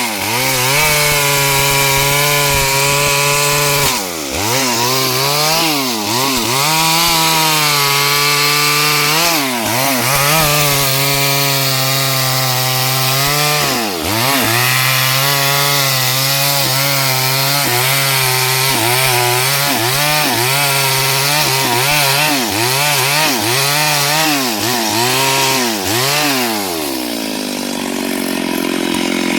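STIHL 72cc two-stroke chainsaw running at high revs while cutting wood, its engine note repeatedly dipping under load and picking back up. Near the end the revs drop and it settles to a low idle.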